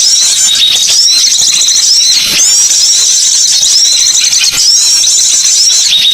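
Small songbirds calling in a loud, continuous, high-pitched chatter, with a curved chirping phrase recurring about once a second: a recorded bird-trapping lure call.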